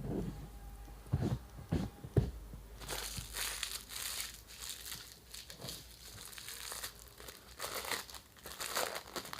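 A few dull knocks and handling bumps, then a crinkly food wrapper being crumpled and scrunched by hand, a dense crackling from about three seconds in.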